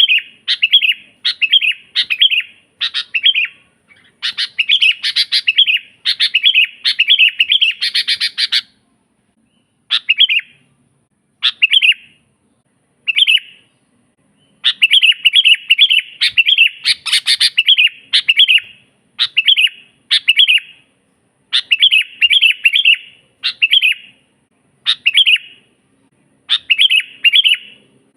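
Sooty-headed bulbul (kutilang) singing loudly and persistently: short, bubbling phrases of quick chirping notes, one every second or so, with a few short pauses between runs.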